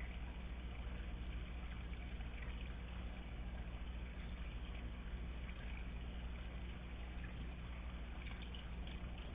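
Steady low electrical hum with an even background hiss, unchanging throughout and with no distinct event; the noise floor of a recording device's microphone.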